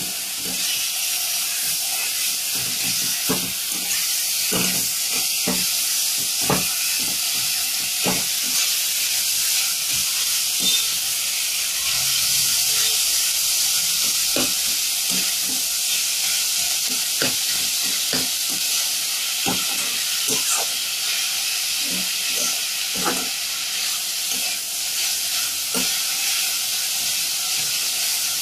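Chicken paste frying in oil with chopped carrot, onion, capsicum and green chilli, sizzling steadily. A spatula stirs it, knocking and scraping on the pan at irregular moments.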